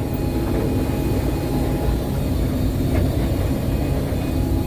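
Combine harvester running steadily under load while harvesting soybeans: a continuous engine and machinery drone with a constant multi-pitched hum.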